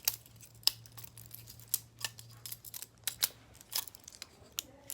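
Butterfly knife being flipped: its metal handles and blade clack and click together in quick, irregular bursts.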